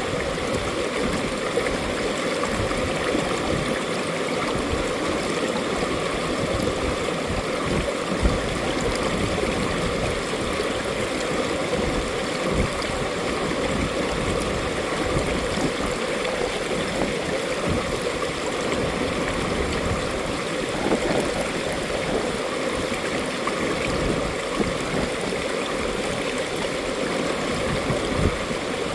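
Mountain valley stream flowing: a steady, unbroken rush of running water.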